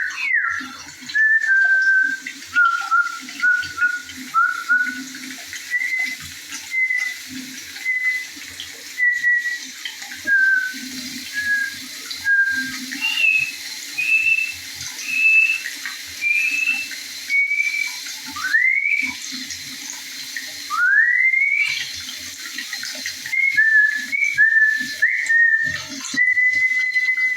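A songbird sings clear whistled notes in short groups of two to four at the same pitch, stepping up or down between groups, with two long rising whistles past the middle. A stream flows steadily and gurgles underneath.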